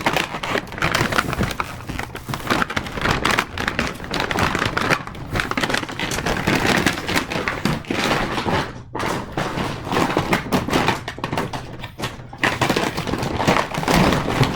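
Cardboard and plastic packaging of a toy train set rustling, crinkling and tearing as the box is opened, with many small taps and knocks from the parts being handled.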